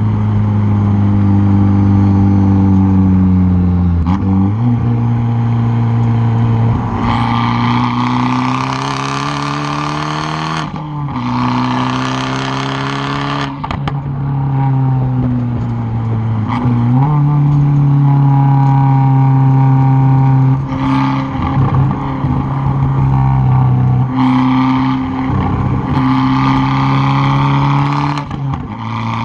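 Straight-piped exhaust of a tuned 2013 Fiat 500 Abarth's 1.4-litre turbocharged four-cylinder, heard close from the rear bumper, pulling hard and climbing in pitch, dropping at each gear change. Later on the throttle is blipped on and off in short spells, with sharp pops from the exhaust.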